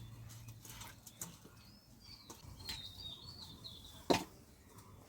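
Small birds chirping in the background, with scattered light clicks and one sharp knock about four seconds in.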